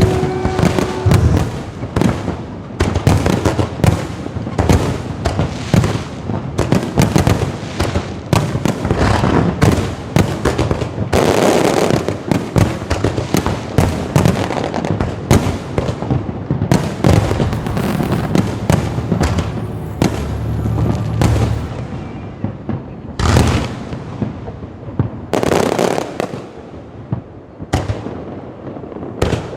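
Aerial fireworks bursting in rapid, dense succession, a steady barrage of sharp cracks and booms that thins out and grows quieter over the last several seconds.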